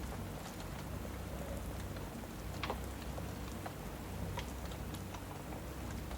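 Steady rain with a low rumble under it, and a fireplace crackling with scattered small pops and one louder crack a little before the middle.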